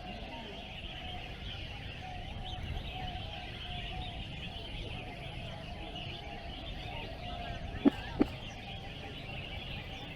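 Dense chorus of many caged songbirds chirping and singing at once, with a lower wavering call running through it. Two sharp knocks about eight seconds in, a third of a second apart, stand out as the loudest sounds.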